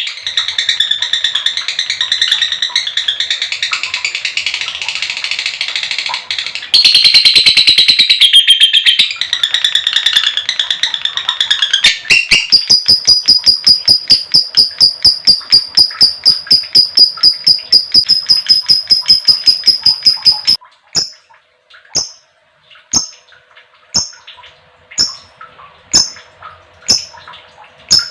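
Female lovebird in full 'ngekek panjang' song. It starts with dense, shrill chattering. About twelve seconds in, this turns into a long, fast run of sharp repeated 'kek' chirps lasting about eight seconds. Then it slows to single chirps about once a second.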